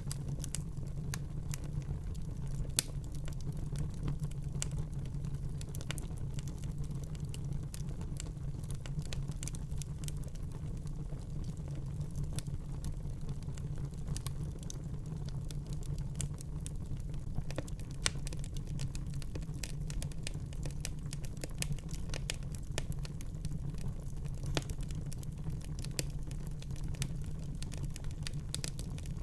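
Fire burning in a fireplace: a steady low rumble of flames under frequent small crackles and snaps, with a louder pop about three seconds in and another around eighteen seconds in.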